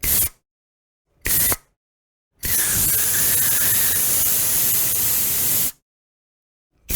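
Aerosol spray can spraying in bursts of hiss. There are two quick sprays, then one long spray of about three seconds, then another quick spray near the end, each stopping sharply into silence.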